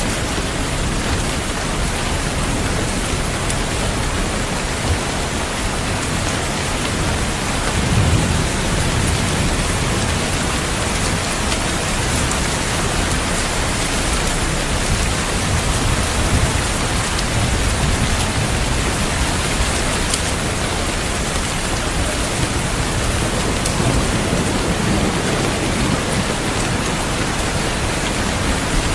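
Heavy, steady rain with a dense hiss of drops. Low rolls of distant thunder swell beneath it a few times, about eight seconds in, in the middle and again near the end.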